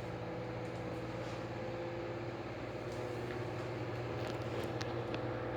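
A steady mechanical hum, with a few faint clicks near the end.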